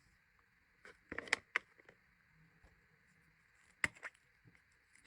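A few sharp clicks and light knocks of small items being handled and set into a gift box, in a quick cluster about a second in and a pair near the end.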